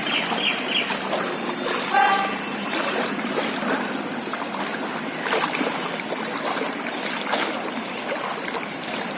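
Floodwater sloshing and trickling steadily, with a brief faint tonal sound about two seconds in.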